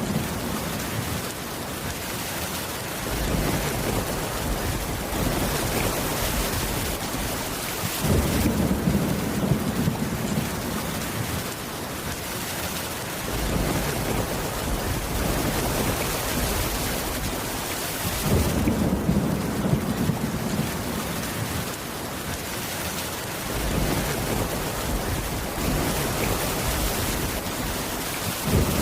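Steady heavy rain on a wooden cabin roof, with a continuous low rumble of storm thunder beneath it; the mix shifts every five seconds or so.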